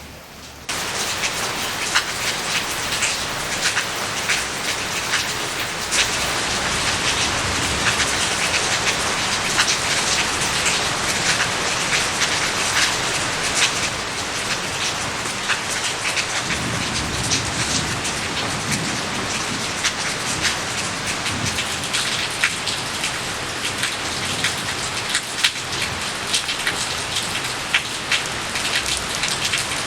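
Steady rain falling, the many separate drops ticking sharply on hard surfaces over a constant hiss. It cuts in suddenly just under a second in.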